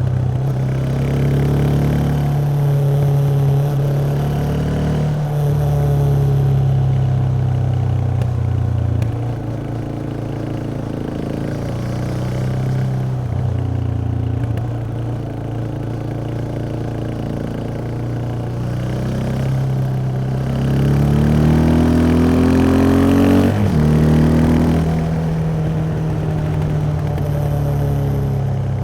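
Yamaha XT 660X single-cylinder four-stroke engine on its stock exhaust, ridden at a steady speed. It runs quieter at lower revs for a stretch, then revs up with a rising pitch, and the pitch drops sharply at an upshift about two-thirds of the way through.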